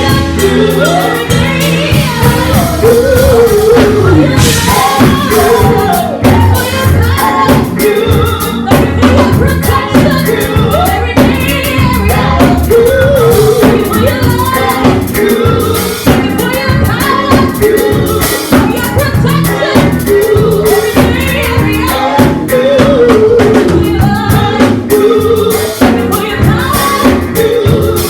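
Live gospel worship music: singing over a band with bass and drums.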